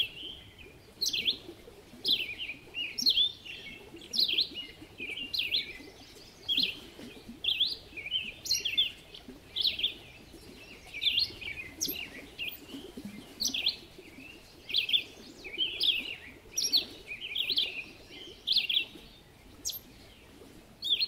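Birds chirping: a steady run of short, high chirps, one or two a second.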